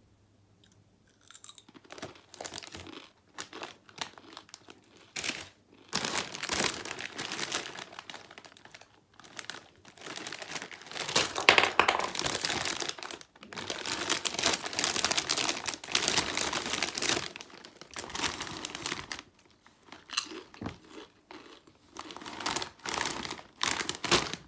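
Potato crisps being crunched and chewed close to a headset microphone, mixed with the crinkling of a foil crisp bag. The crunches are loud and irregular, starting about a second and a half in.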